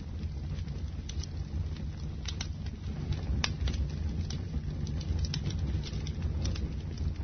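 Wood fire burning, with a steady low rumble of flames and frequent sharp crackles and pops at irregular intervals.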